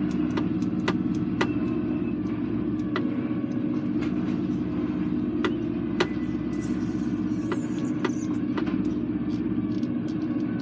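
Lorry engine running steadily, heard from inside the cab, with scattered light clicks and rattles over it.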